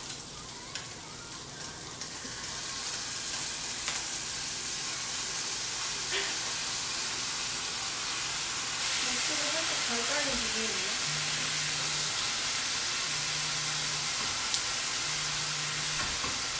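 Kimchi and its juice tipped into a hot wok of oil with fried scallions and Spam, sizzling steadily. The frying grows louder about nine seconds in, as the juice hits the oil. There are a few light clicks of the utensils against the wok.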